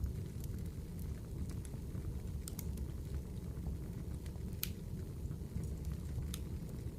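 Wood campfire burning: a steady low rush of flames with scattered sharp crackles and pops, the loudest a little past halfway.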